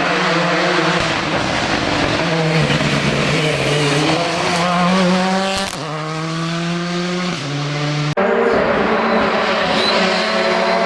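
Rally car engine at high revs, its pitch climbing and then dropping sharply at each upshift, twice. About two-thirds of the way through the sound breaks off suddenly, and high-revving engine sound carries straight on.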